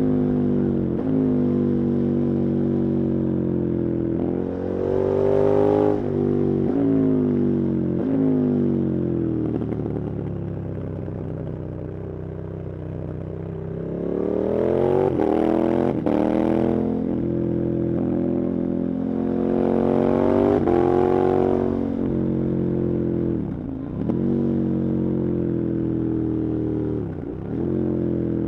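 KTM 1290 Super Adventure's V-twin engine under hard riding, its pitch climbing under acceleration and dropping sharply at each gear change. It goes quieter and lower off the throttle for a few seconds midway, then pulls up through the revs again twice.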